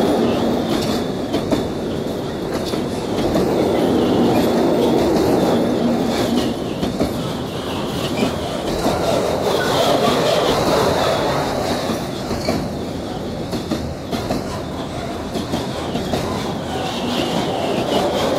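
Freight train of bogie gas tank wagons rolling past close by, a steady loud rumble of wheels on the rails with clattering, swelling and dipping as the wagons go by.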